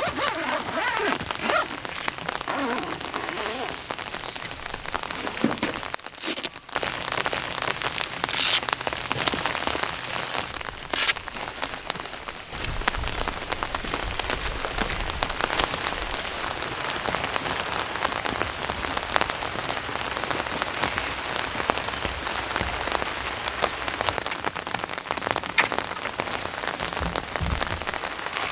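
Heavy rain falling steadily, with a few sharper single drop hits standing out; the sound drops out briefly about six seconds in.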